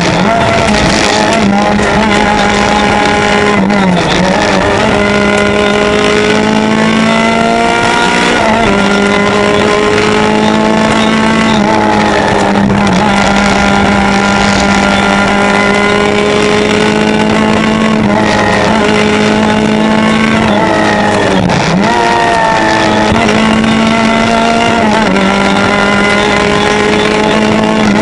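Peugeot 205 rally car's engine heard from inside the cabin, pulling hard at high revs. Its pitch climbs and drops again and again as it works through the gears and lifts for corners.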